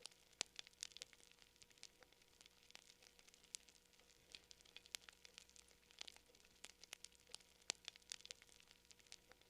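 Faint crackling of a wood campfire: many short, sharp pops and snaps at irregular spacing, several a second.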